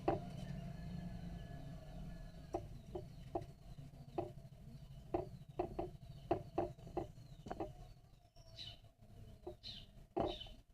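Faint bird chirps over a steady low hum, with scattered soft clicks throughout. The chirps are clearest over the last two seconds.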